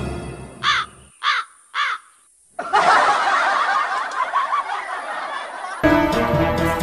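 Crow cawing three times in quick succession, then about three seconds of dense, noisy chatter. A new music cue starts near the end.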